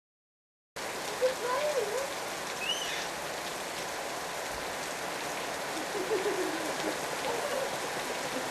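Storm rain falling steadily, starting about a second in, with a few brief voices calling out over it.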